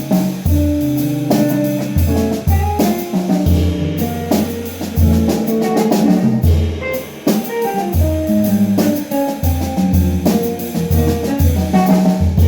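Jazz band playing an instrumental passage: drum kit with frequent cymbal and drum strokes, a low line of short sustained notes moving every half-second or so, and pitched notes above.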